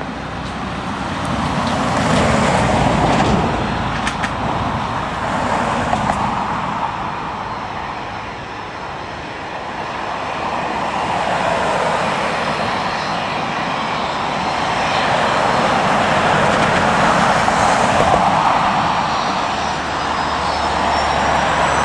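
Jet airliner engines running, a broad roar that swells and fades, with a rising whine near the end.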